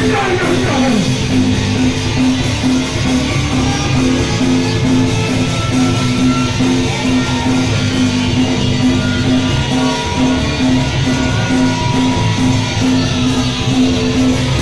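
Punk band playing live: a loud guitar-driven passage of steady repeated notes over bass, with a regular beat that shows in the top end from about halfway.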